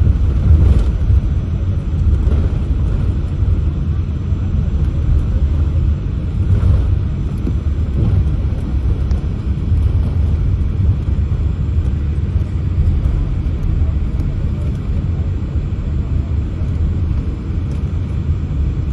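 Cabin noise inside a Boeing 787-8 as it taxis: a steady low rumble from the engines at taxi power, with a few faint knocks.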